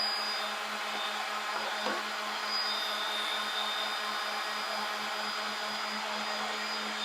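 Handheld electric power tool running steadily at a constant speed, a continuous motor whir with a steady hum.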